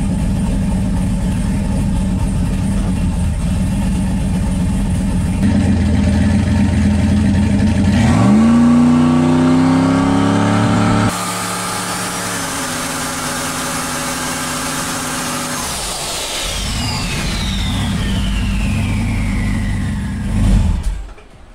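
Turbocharged LS V8 in a drag car idling, then brought up against the three-step launch limiter for about three seconds to build boost, where it makes about 13 psi and holds it there. When the revs are released, a high turbo whine falls away as the turbo spools down. The engine settles back to idle and is switched off just before the end.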